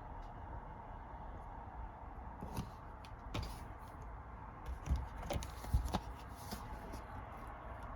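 Disc cases and packaging being handled: a run of light clicks and knocks starting a couple of seconds in, loudest a little past the middle, over a steady low hum.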